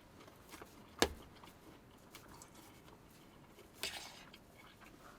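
A person eating a mouthful of fried rice, quiet chewing, with one sharp click about a second in and a short rustling scrape just before four seconds.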